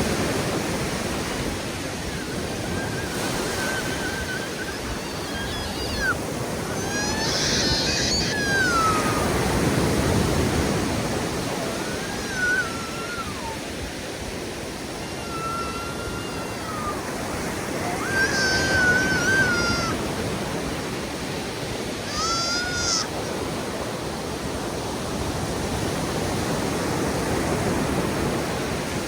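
Ocean surf breaking on a beach, a steady wash that swells and eases every several seconds. Several short, high, wavering calls sound over it through the first two-thirds.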